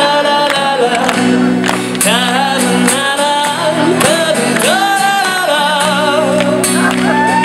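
A band playing an acoustic arrangement, a voice singing a melody with vibrato over sustained chords and regular drum hits.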